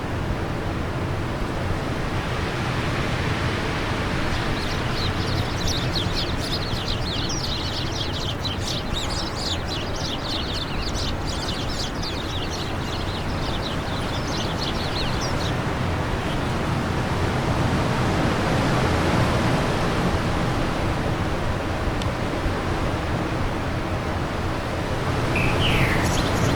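Steady wind rushing, swelling a little in gusts, with a small bird twittering in a fast run of high chirps from about five seconds in for some ten seconds, and one short rising chirp near the end.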